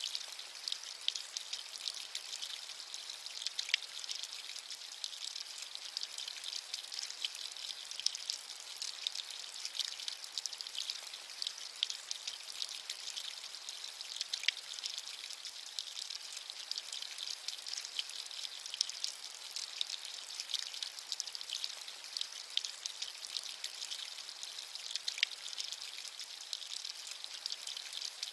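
Steady rainfall, a dense hiss of drops with many small crackling ticks of individual raindrops.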